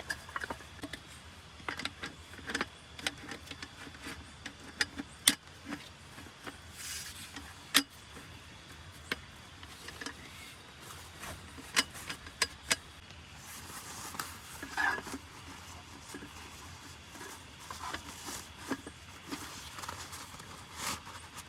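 Irregular sharp clicks, clinks and knocks of small hard objects being handled, with a short scrape about two-thirds of the way through, over a faint steady hiss.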